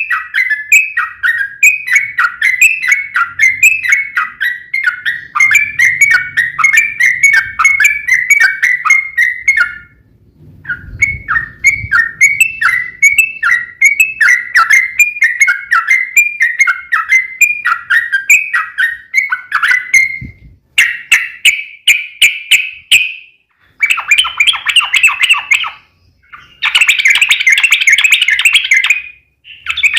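Yellow-vented bulbul singing a long, rapid chattering song of short repeated chirping notes, several a second. It breaks briefly about a third of the way in, and later comes in shorter, denser bursts.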